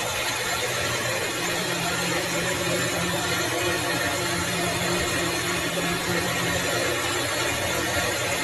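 Metalworking machine running steadily in a workshop, a constant hum with a broad hiss.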